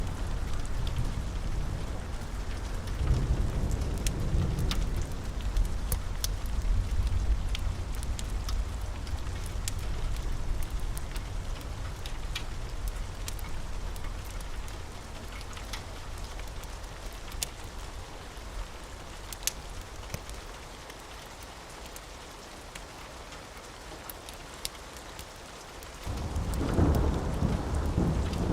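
Steady rain with a long rolling thunder rumble that slowly dies away, then a fresh peal of thunder breaking in suddenly near the end. Scattered sharp ticks sound throughout.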